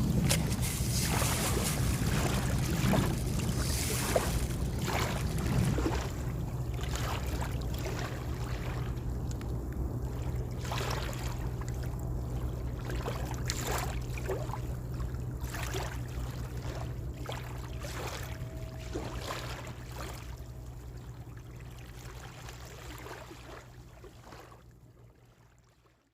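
Water splashing and lapping in short irregular bursts over a steady low hum, fading out over the last couple of seconds.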